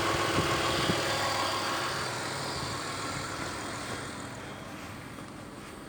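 Toyota Windom's 4VZ-FE V6 engine running steadily after its misfire was fixed, the owner saying it all works normally now. The sound grows gradually fainter.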